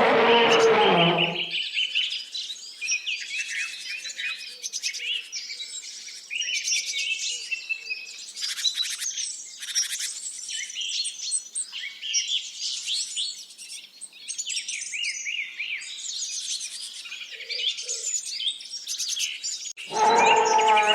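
Many small birds chirping and twittering together: a dense chorus of quick high chirps and trills. A louder, lower-pitched animal sound or clip fills the first second or so and returns in the last second.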